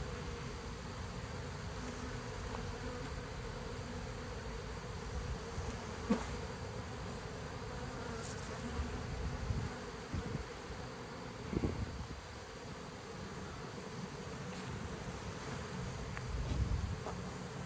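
A honeybee swarm buzzing steadily, with a few knocks and bumps from handling now and then.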